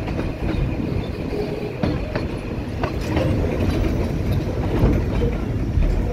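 Puffing Billy narrow-gauge train running along the track, heard from on board: a steady rumble and rattle of the carriage, with a few scattered wheel clicks over the rails.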